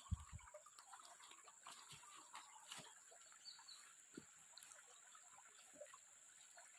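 Near silence: faint outdoor room tone with a steady faint high-pitched hiss and scattered light ticks, and a soft low thump right at the start.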